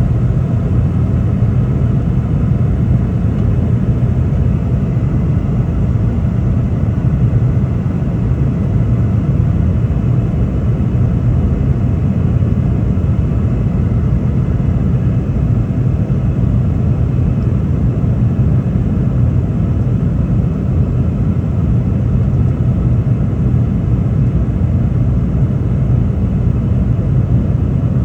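Steady low rumble of a Boeing 717-200 in flight, heard inside the passenger cabin: its rear-mounted Rolls-Royce BR715 engines at power together with airflow noise, unchanging throughout.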